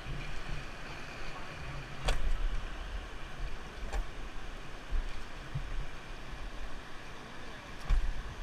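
Steady rush of river water with wind buffeting the microphone, and a few low thumps about two seconds in, about four seconds in and near the end.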